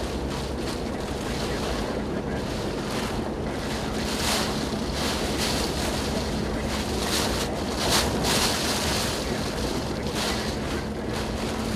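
Hurricane-force wind and rain buffeting the microphone in a steady roar, with stronger gusts about four and eight seconds in. A faint steady hum runs underneath in the second half.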